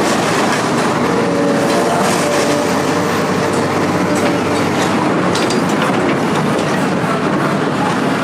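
Steady, loud mechanical rumbling with continuous rattling and clattering, like a heavy vehicle or machine running.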